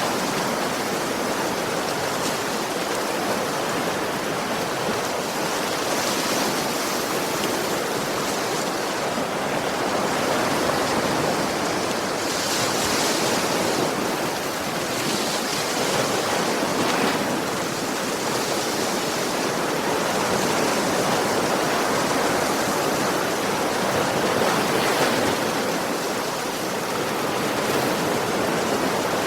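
Sea waves breaking on a beach: a steady rush of surf, swelling a little every few seconds.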